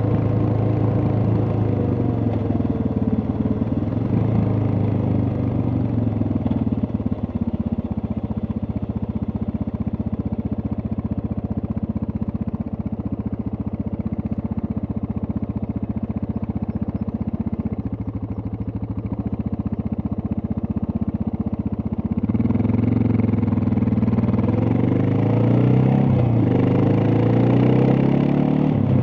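Suzuki DR650's single-cylinder four-stroke engine slowing down and settling to a low, steady thumping beat for about fifteen seconds. Near the end it picks up again and revs up through a gear change.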